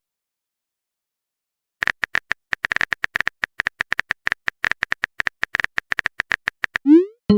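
Typing sound effect: a rapid run of short, sharp clicks, about seven a second, starting about two seconds in after silence.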